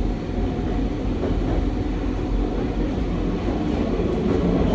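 Running noise inside a Nankai 2200-series train car under way: a steady rumble of wheels on rail.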